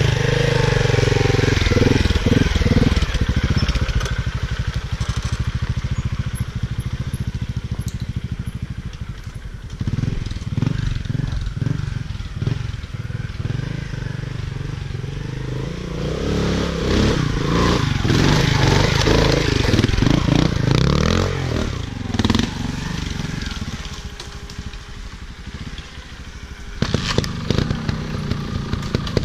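Motorcycle engine running under varying throttle on a trail, with crunching and crackling from the ground under the tyres.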